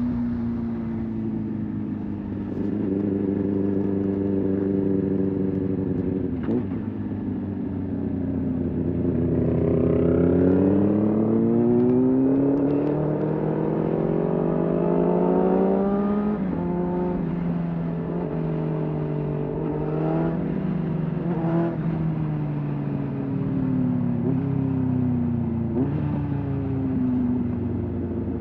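Sport motorcycle engine under way: the revs climb for several seconds, drop in sharp steps as gears change, and then fall away slowly as the bike slows.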